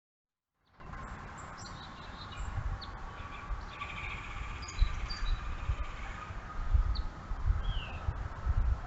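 Songbirds chirping with short, scattered high calls and quick glides. A faint steady high tone runs underneath, and irregular low rumbling bursts that grow stronger later on sound like wind on the microphone. The sound starts just under a second in.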